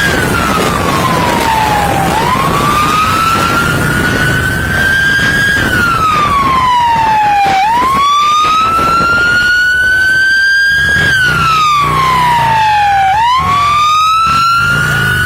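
Police siren on a slow wail, its pitch climbing for about three seconds and dropping for about two, over and over, with steady vehicle and wind rumble underneath.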